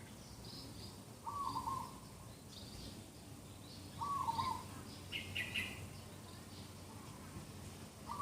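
Early-morning birdsong: a short, low, wavering bird call comes about a second in and again about four seconds in, among higher chirps and twitters from other birds.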